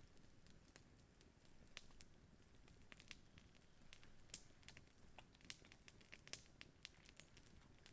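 Faint campfire crackling: scattered, irregular small pops and clicks over near silence.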